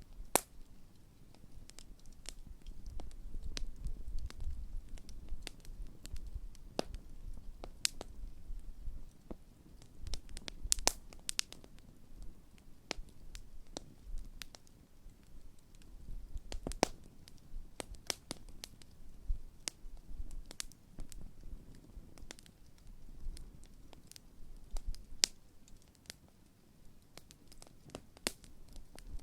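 Large wood campfire burning, the wood crackling and popping in irregular sharp snaps over a low, uneven rumble.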